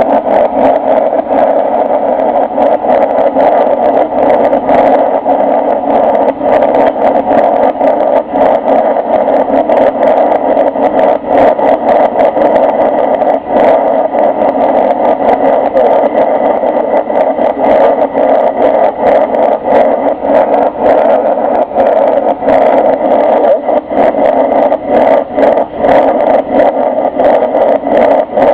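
Steady engine and airflow noise of a Boeing 747-300 airliner, heard from inside the passenger cabin, loud and even throughout with small brief crackles.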